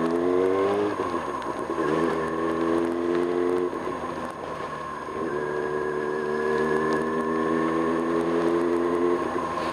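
1995 Kawasaki Ninja ZX-6R's inline-four engine on the move, rising in pitch in the first second, then running at steady revs. It eases off briefly around four seconds in, then holds steady again until near the end, over a steady high whine.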